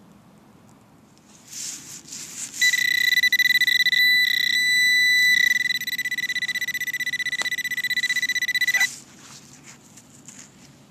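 Fisher metal detector sounding a steady, buzzy high tone for about six seconds as the coil passes over a buried target, starting a couple of seconds in after some rustling and wavering briefly in the middle. The target turns out to be foil.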